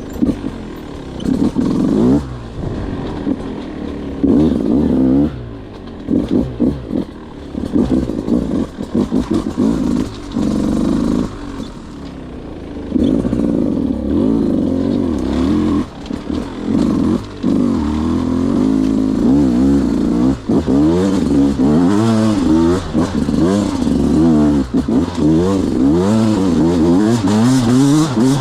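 Beta 200 2T single-cylinder two-stroke motorcycle engine under riding load, revving up and down in quick bursts with short throttle-offs between them. The pitch swings fast and often in the second half.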